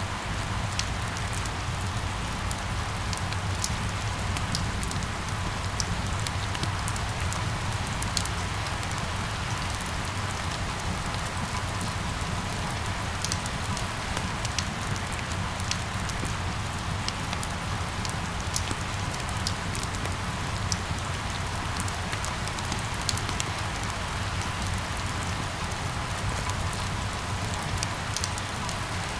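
Steady rain falling on hard surfaces, with many individual drops ticking sharply over a constant low rumble.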